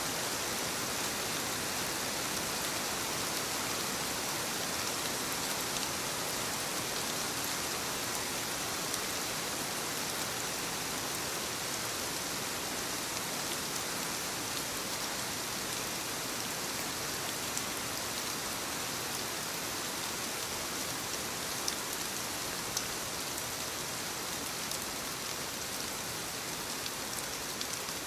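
Soft rain falling on leaves: a steady hiss of rainfall with scattered small drop taps.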